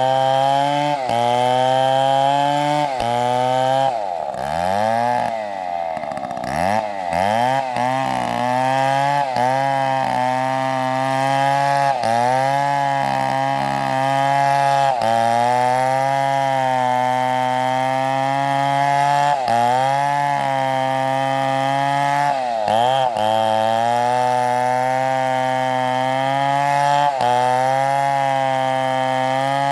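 STIHL chainsaw running at high revs while cutting through wood. Its pitch sags and recovers again and again under the load of the cut, dropping most deeply about four to seven seconds in.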